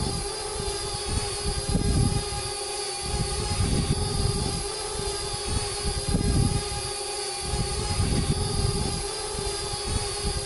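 Parrot Bebop 2 quadcopter's electric motors and propellers running, a steady high whine made of several held tones. Low wind buffeting on the microphone swells and fades every second or two.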